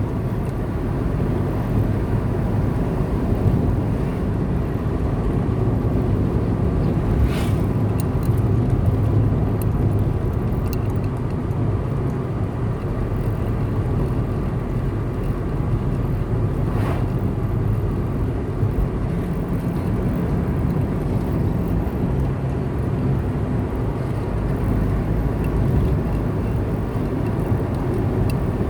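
Car driving along a road: a steady low rumble of engine and tyres, with two brief sharper sounds about seven and seventeen seconds in.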